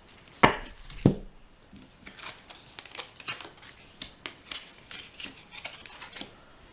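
Cards being handled on a table: two sharp taps about half a second and a second in, then a run of light, quick clicks and rustles as the deck is shuffled and cards are drawn.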